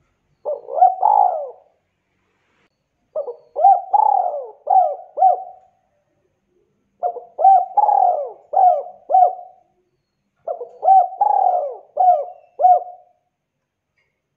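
Spotted dove (tekukur) cooing: four phrases of several quick rising-and-falling coos each, a few seconds apart.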